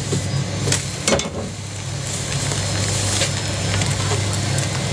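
Work at a jianbing pancake street stall: a few sharp knocks of utensils in the first second or so, then a steady hiss, over a constant low hum.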